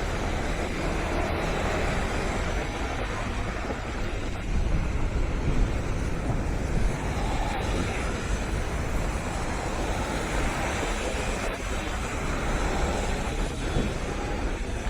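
Steady roar of stormy sea waves and strong wind, with wind buffeting the microphone in a heavy low rumble.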